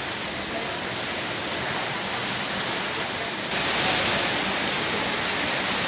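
Heavy storm rain pouring down as a steady hiss that turns louder and brighter about three and a half seconds in.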